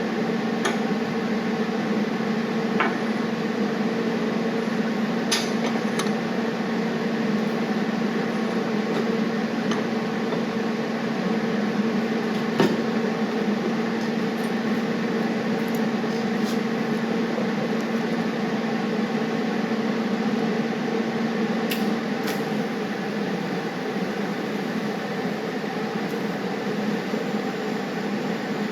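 A nut being welded onto a steel clamp: a steady hiss with an even low hum under it, and a few light clicks now and then.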